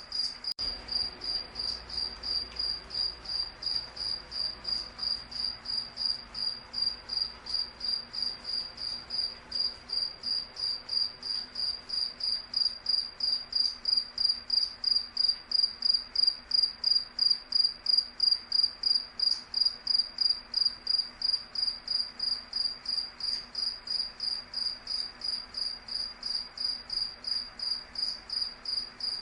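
A cricket chirping steadily: an even run of high, clear chirps at about three a second, growing a little louder midway.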